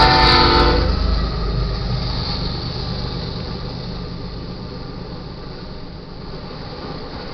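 Freight locomotive air horn sounding its chord and cutting off about a second in, followed by the steady rumble of intermodal cars rolling past, slowly fading.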